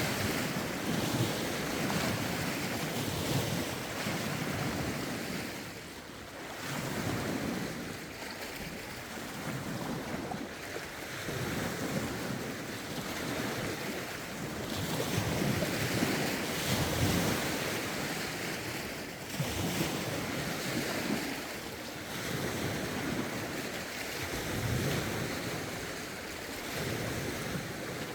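Lake waves, raised by a rough wind, washing in and easing every few seconds, with wind noise on the microphone.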